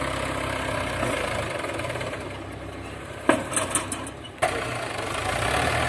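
Mahindra 475 DI tractor's diesel engine idling. About halfway through it turns quieter for a couple of seconds, with a few sharp clicks, then comes back at full level.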